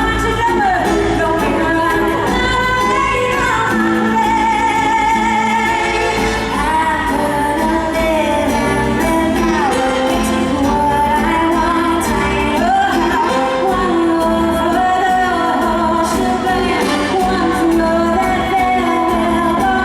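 A woman singing a Broadway show tune live with band accompaniment, her voice holding and bending long sustained notes over the music.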